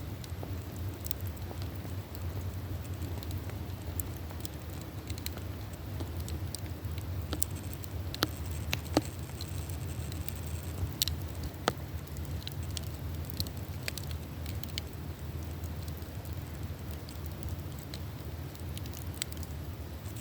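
Wood campfire burning: scattered sharp crackles and pops over a steady low rush, with a few louder pops around the middle.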